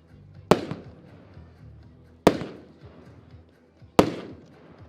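Diamond No. 1 firework battery firing: three sharp bangs about 1.7 seconds apart, each echoing away, with faint pops between.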